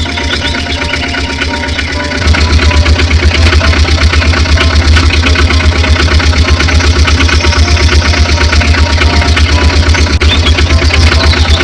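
Tractor engine idling with a fast, even chug, which becomes much louder about two seconds in and stops abruptly at the end.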